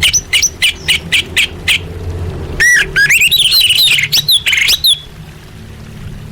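Female orange-headed thrush (anis merah) calling to a male: a quick run of about eight short chirps, then a rapid twittering warble that stops about five seconds in.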